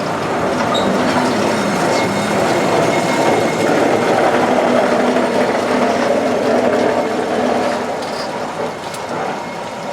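A narrow-gauge forest railway train running along its track, the wheels and carriages rattling, heard from aboard. The noise is steady, grows a little louder mid-way and eases off near the end.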